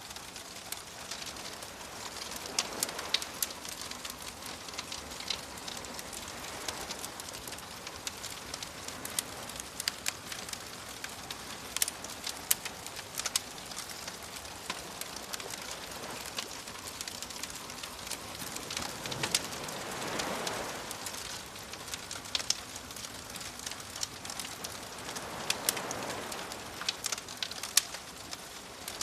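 Bonfire crackling, with frequent sharp irregular pops and snaps, over gentle waves that wash in as slow swells several seconds apart, the largest about 20 seconds in and again near 26 seconds.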